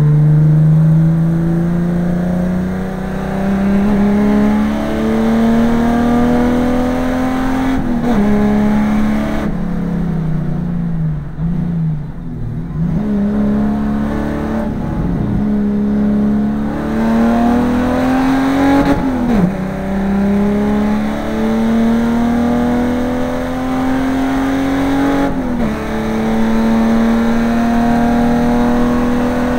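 Holden VN Commodore race car engine heard from inside the cabin at racing speed. The revs climb steadily in each gear and drop sharply at the gear changes. About ten seconds in the revs fall away for a few seconds as the driver lifts off, then the engine pulls up through the gears again.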